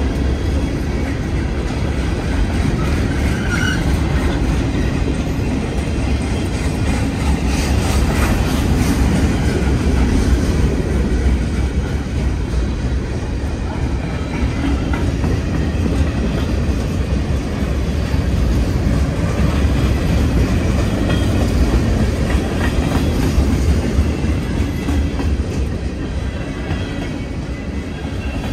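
Freight train of boxcars rolling past at close range: a steady rumble and clatter of steel wheels on the rails.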